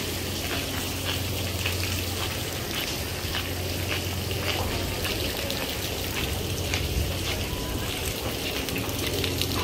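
Heavy rain pouring down, a steady hiss full of scattered drops pattering and spattering, over a low steady hum.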